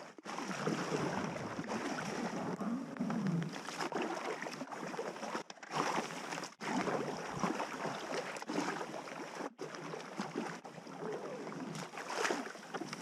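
Water rushing and splashing around a packraft moving down a river, heard as several short clips cut together.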